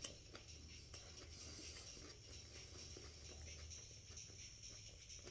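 Faint chewing of a mouthful of crunchy rib-and-chip kebab wrap, with small soft crunches and mouth clicks.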